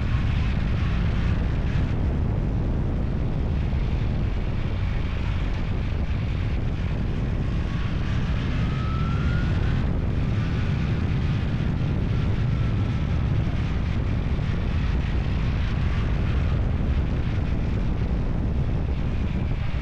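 Steady low drone of a running vehicle engine mixed with wind rumble on the microphone, as on a moving vehicle. A faint rising whine is heard about eight to ten seconds in.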